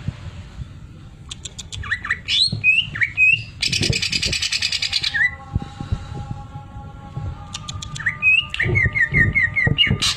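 Cucak ijo (green leafbird) singing a varied song of sharp clicks and slurred whistled notes. About four seconds in comes a second-and-a-half run of very fast rattling, the 'sewing machine' phrase. Near the end there is a quick series of short repeated whistles.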